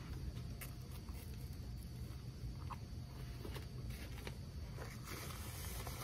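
Faint chewing and mouth sounds from eating a piece of pot pie crust, with scattered small clicks over a steady low hum. A soft paper-napkin rustle comes near the end.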